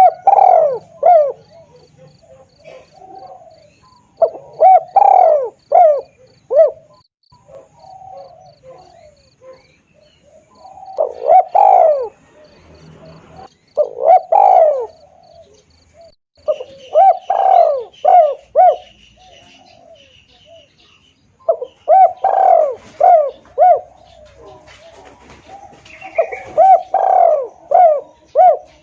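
Spotted dove (tekukur) cooing: loud phrases of several coos, repeated about every 3 to 6 seconds.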